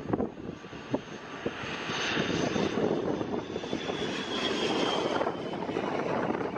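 ATR 72-500 twin-turboprop airliner arriving, its engine and propeller noise building to a steady loud drone with a thin high whine. Wind buffets the microphone in the first second or so.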